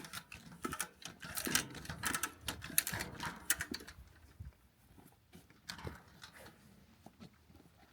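Rapid metallic clicking and rattling from fence-stretching work on wire fencing, dense for about the first four seconds, then a few scattered clicks.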